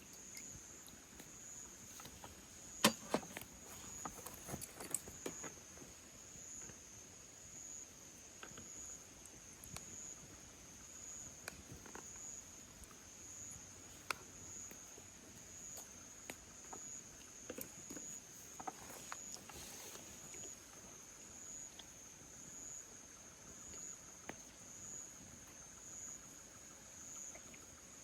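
Insects chirping in a steady, high, evenly pulsing chorus. Scattered light clicks and knocks sound over it, the loudest a few seconds in.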